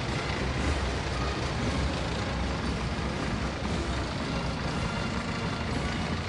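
Heavy military vehicles driving past in a parade column, a steady low rumble, with a military band playing faintly underneath.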